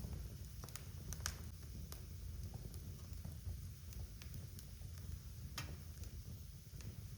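Wood fire burning in a fireplace: a steady low rumble with irregular sharp crackles and pops, the loudest a little over a second in.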